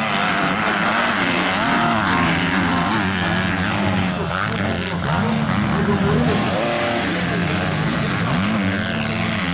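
Motocross bikes' engines revving hard, the pitch rising and falling again and again as the riders work the throttle and shift.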